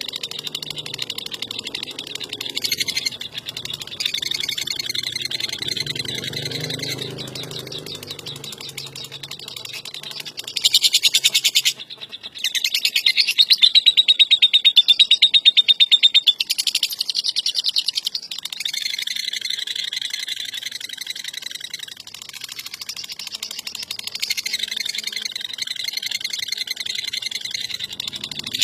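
Lovebird in long, continuous ngekek: a rapid, shrill chattering trill that runs almost without pause. It grows loudest from about ten to sixteen seconds in, with a brief break near twelve seconds.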